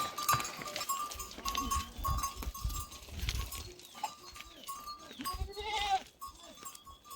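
Small livestock bleating now and then, with one clear bleat about five and a half seconds in. Under it there is low rumbling and a thin high tone that comes and goes.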